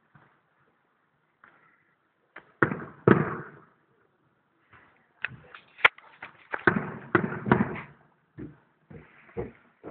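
Aerial fireworks bursting, heard from far off through a phone's microphone: two bangs a little under three seconds in, then a rapid run of many bangs and crackles from about five seconds on.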